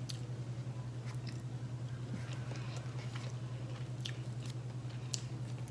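Faint chewing of grilled chicken off a skewer, with a few small clicks of mouth and fork sounds, over a steady low electrical hum.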